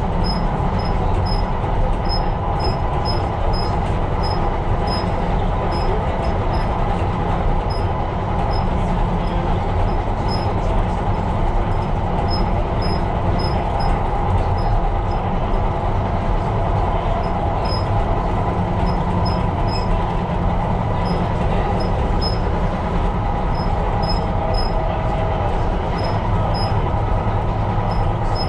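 Tyne and Wear Metro train running along the line, heard from inside the train: a steady rumble of wheels on rail and running gear.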